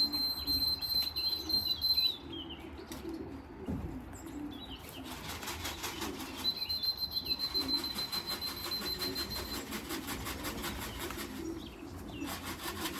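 Racing pigeons at the loft: wings flapping in a quick run of beats through the middle, over steady low cooing. A high steady tone sounds twice.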